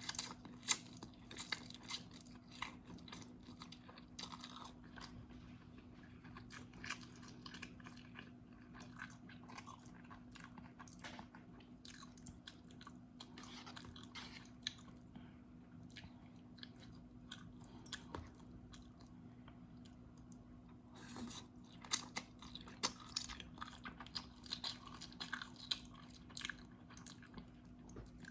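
Close-miked mouth sounds of a person eating instant noodles: a run of small wet clicks and smacks, busier about three-quarters of the way through. A faint steady low hum sits underneath.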